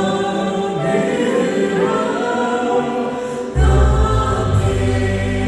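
Christian worship song: voices singing with musical accompaniment. A deep bass comes in about three and a half seconds in, and the music grows louder.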